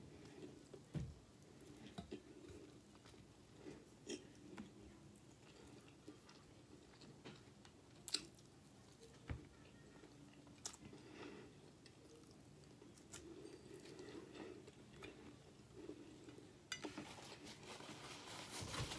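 Faint chewing and mouth sounds of someone eating baked chicken and pasta, with scattered light clicks and taps. Near the end, a paper napkin rustles as hands and mouth are wiped.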